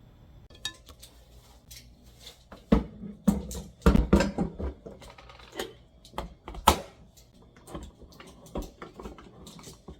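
Household objects being handled and set down: a run of irregular clicks and knocks, with several louder clatters in the middle.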